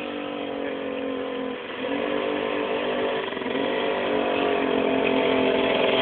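Puch two-stroke moped engine on a minibike running and revving, with its pitch dropping briefly about one and a half seconds in and again past the middle, then climbing. It grows louder towards the end.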